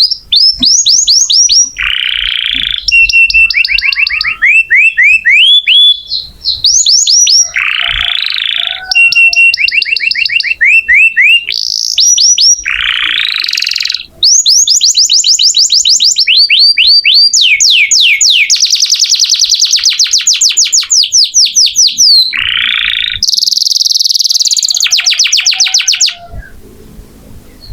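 Domestic canary singing a long, loud, unbroken song of fast trills and quickly repeated rising notes, with a long, very rapid trill in the middle; the song stops near the end.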